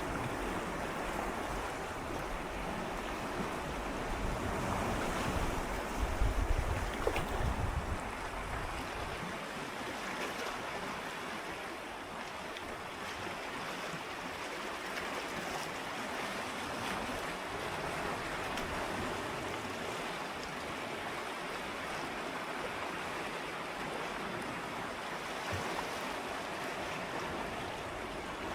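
Gentle sea waves swirling and lapping against shoreline rocks: a steady wash of water, swelling louder with a low rumble about five to eight seconds in.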